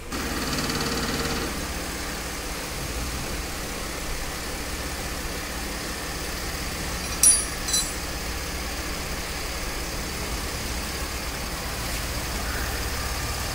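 Mercedes ML 350 CDI's V6 diesel engine idling steadily, with two sharp clicks about halfway through.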